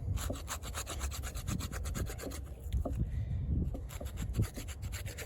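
Rounded spine of a fixed-blade AUS-10 steel knife scraping bark off a stick in rapid, repeated strokes.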